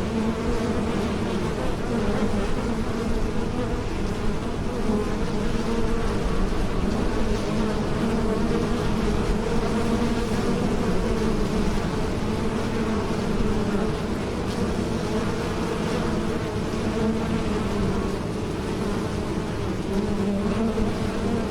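Bees buzzing in flight: a steady, unbroken drone.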